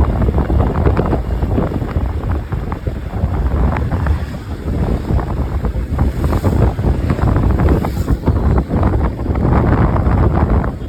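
Heavy wind buffeting the microphone on a moving motorcycle: a loud, gusty rumble that rises and falls irregularly.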